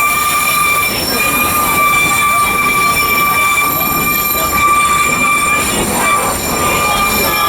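30-inch narrow-gauge train cars rolling along the track with a continuous rumble, and a steady high-pitched wheel squeal that breaks briefly about a second in and stops about six seconds in.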